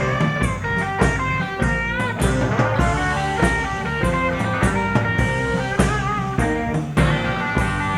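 Blues-rock band playing an instrumental break: a lead electric guitar plays sustained, bent notes over bass and a drum kit keeping a steady beat with cymbal hits.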